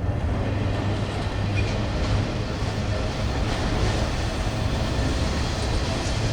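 Freight train cars rolling past close by, a steady rumble of wheels on rail.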